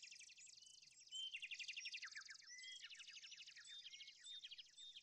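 Faint chorus of several songbirds singing at once, with overlapping rapid trills and short chirps.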